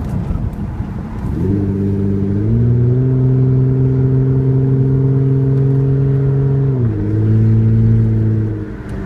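2006 Hyundai Sonata's V6 running through an open header, with its mufflers, resonator and catalytic converter removed, under throttle. The engine note rises in pitch about a second and a half in, holds steady for about four seconds, drops to a lower steady pitch around seven seconds in, then fades near the end.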